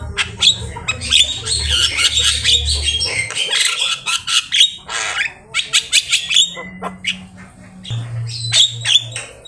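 Javan myna (jalak kebo) singing a dense, fast string of harsh squawks, chatters and sharp whistled notes, with a brief lull about halfway through. A low steady hum sits underneath for the first three seconds and again near the end.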